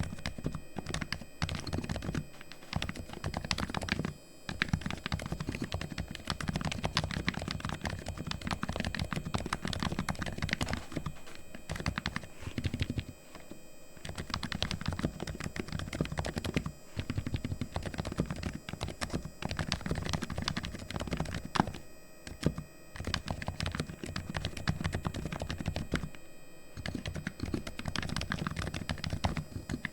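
Fast, continuous typing on a fully lubed Razer Huntsman V2 Linear keyboard, its linear optical switches clacking in a dense stream, broken by several brief pauses.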